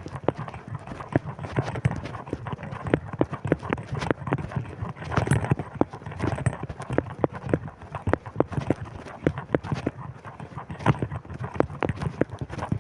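A person walking into a strong wind: a quick, uneven run of sharp footstep clicks over wind rumbling on the microphone.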